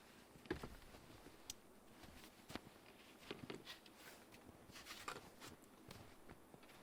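Near silence with a few faint, scattered clicks and rustles.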